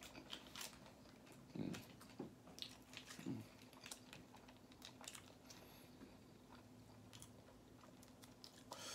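Faint chewing and small mouth clicks of someone eating a grilled chicken taco, with light rustling as a sauce packet is handled. A faint steady hum runs underneath.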